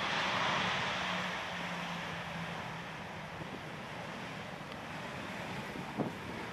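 Boeing 737-800's CFM56 turbofan engines, a broad rushing jet noise loudest about half a second in and then slowly fading as the landing airliner moves away. A low hum fades out about two and a half seconds in, and a brief wind buffet hits the microphone near the end.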